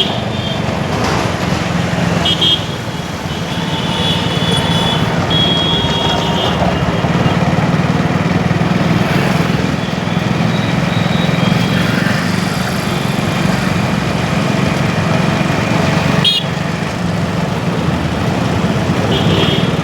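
Busy street traffic with a steady engine and road rumble, and vehicle horns honking several times in the first several seconds and again near the end.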